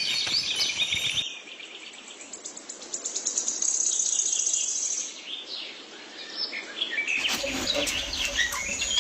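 Small birds chirping and tweeting in quick short calls, with a high insect-like trill around the middle. The sound changes abruptly about a second in and again near the end, as if separate recordings are spliced together.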